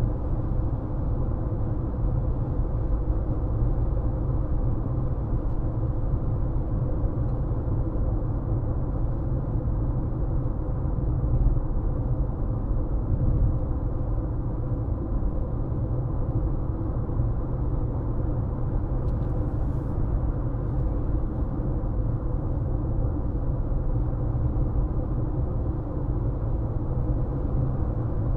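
Car driving along at steady speed: a continuous low rumble of tyre and engine noise, with a faint steady hum.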